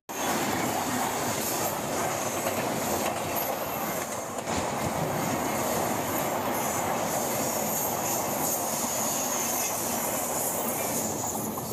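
Passenger train running on the rails, heard from on board: a steady rush and rumble of wheels on track, with a thin, steady high-pitched squeal over it.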